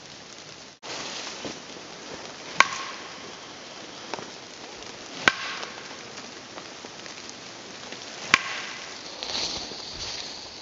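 Steady rain falling, with three sharp, briefly ringing strikes about three seconds apart.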